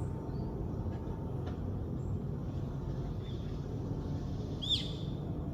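Birds calling over a steady low rumble: scattered faint high chirps, and about three-quarters of the way through one louder, sharp call that sweeps quickly downward.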